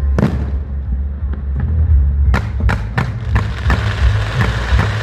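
Fireworks going off over music with a heavy bass: one bang just after the start, then a quick run of sharp reports from about halfway through, turning into dense crackling.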